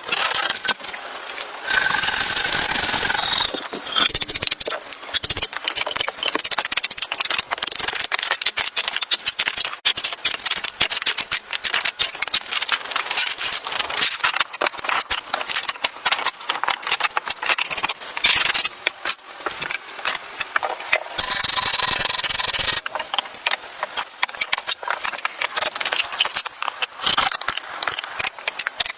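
A dense, continuous run of scraping, rubbing and rattling knocks, with two steadier hissing stretches, about two seconds in and again about twenty-one seconds in.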